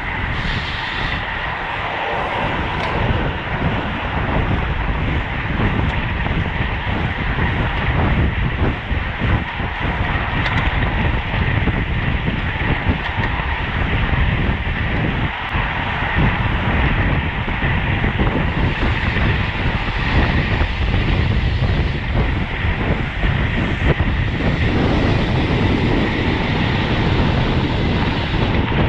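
Steady wind noise buffeting the microphone of a camera on a road bike moving at racing speed, strongest in the low end.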